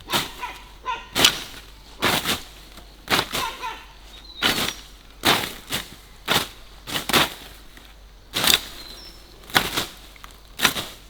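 Repeated swishing strokes of a blade slashing through grass, about one a second at an uneven pace, each a short sharp swish.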